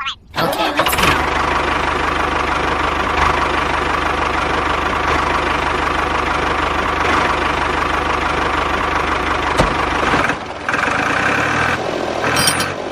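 An engine idling steadily with an even, knocking beat, the kind of sound a tractor engine makes. It stops about ten seconds in, and a shorter, higher-pitched steady sound follows.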